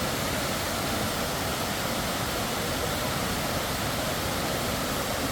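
Waterfall rushing: a steady, even wash of falling water with no change.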